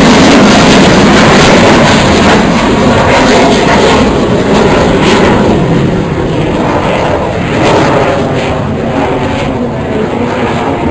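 Aircraft flying past low and loud, a heavy rushing engine noise that slowly fades over several seconds.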